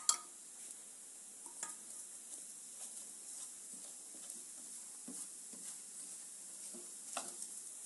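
Puran poli frying in ghee in a pan, giving a steady faint sizzle. A steel spoon taps and scrapes against the flatbread and pan a few times, sharpest right at the start.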